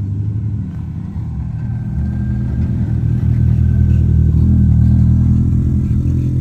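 Car engine running close by, getting louder until a little past the middle and then easing slightly, as a car drives in.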